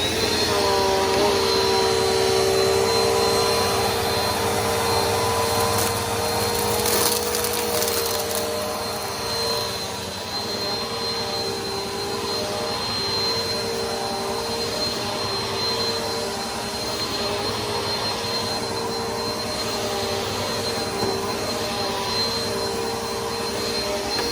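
Bissell PowerForce Helix upright vacuum switched on and running steadily, a high whine over several steady motor tones.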